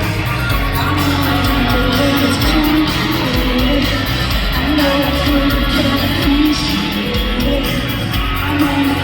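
A rock band playing live with guitars and drums, with singing over the music, recorded on a phone in a large concert hall.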